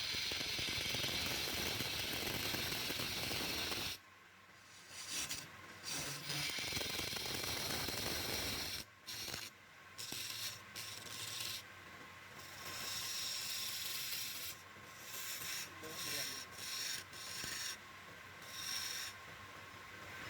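Abrasive rubbing on wood: steady for the first four seconds, then in short strokes broken by brief pauses.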